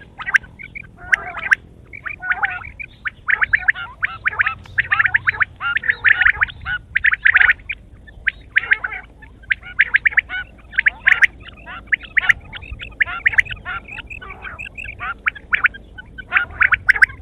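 Quail calling in rapid rattling bursts, one run of pulses after another with short pauses between.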